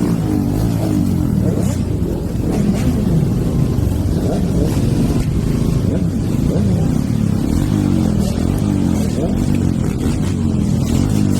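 Stage-2-tuned Hero Eco 150's single-cylinder engine pulling hard under riding, its pitch climbing and falling back again and again as the throttle is worked and the gears change.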